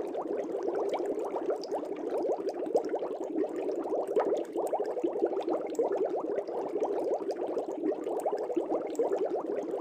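Air bubbles rising through aquarium water from an air stone or bubbler, a steady dense bubbling made of many small quick gurgles.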